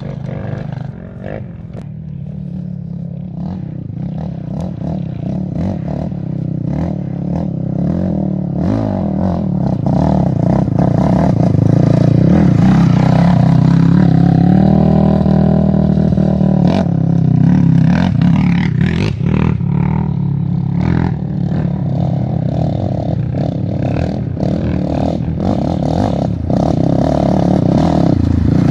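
A motor running steadily, its pitch rising and falling once about halfway through, with scattered knocks.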